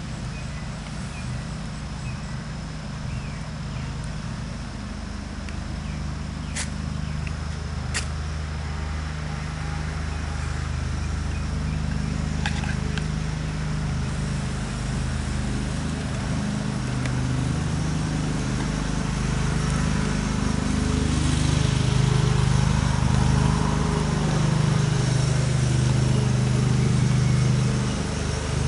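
A ferrocerium rod scraped sharply twice, about six and eight seconds in, to throw sparks onto charred punkwood. Under it runs a low, steady engine-like hum that grows louder toward the end.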